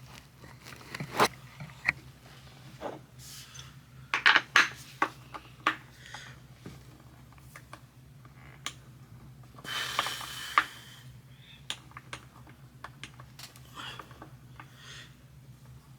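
Skate tool working the kingpin nut of a skateboard truck: irregular metal clicks and clinks as the truck is tightened, with a cluster of them a few seconds in and a short rasp about ten seconds in.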